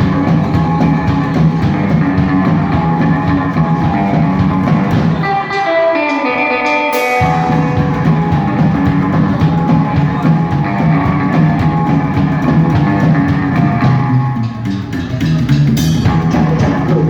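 Rock band playing live: guitar over bass and drum kit. About five seconds in the bass and drums drop out under a short run of falling guitar notes, then the full band crashes back in about seven seconds in.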